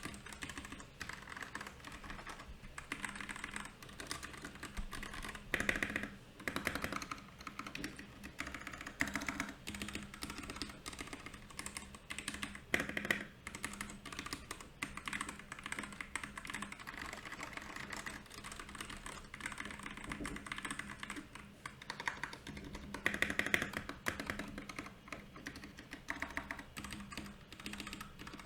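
Steady typing on a Royal Kludge RK68 mechanical keyboard: a continuous uneven run of key clicks, with a few faster, louder flurries of keystrokes.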